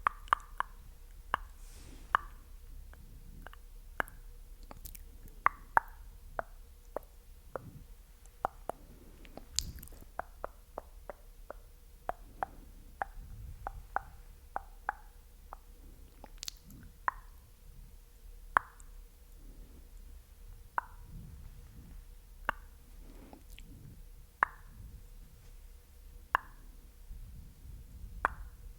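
Close-miked ASMR mouth sounds: short wet pops and clicks of the lips and tongue, quick and dense for the first half, then slower, about one every two seconds.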